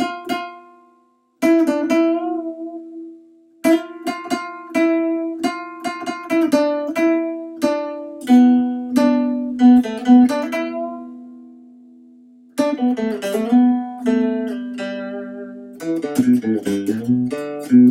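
Solo acoustic guitar playing an instrumental break, picked notes and chords that ring out. It stops briefly about a second in, lets a few notes ring and fade in the middle, then comes back fuller with lower bass notes.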